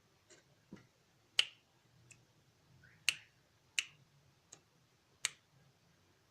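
A series of about eight short, sharp clicks at irregular intervals, four of them much louder than the rest, over faint room hum.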